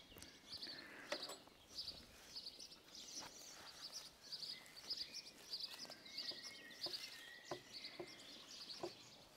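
Birds chirping in the background: a short, high note repeated about twice a second, with a few faint knocks in between.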